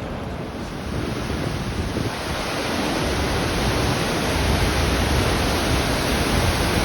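Steady rush of rain-swollen floodwater running over a washed-out track, growing louder over the first three seconds.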